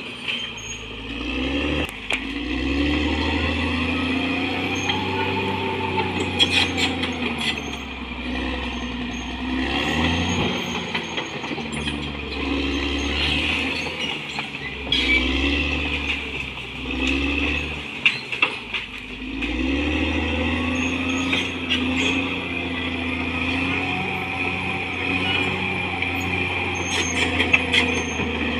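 Caterpillar D6R XL bulldozer's diesel engine running under load, its pitch rising and falling every few seconds as the machine works, with a few sharp metallic clanks.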